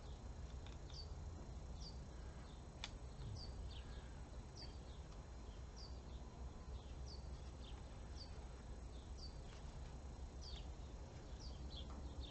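Faint bird chirping: short, high, downward-sliding chirps repeated about once a second over a low steady hum. A single sharp click comes about three seconds in.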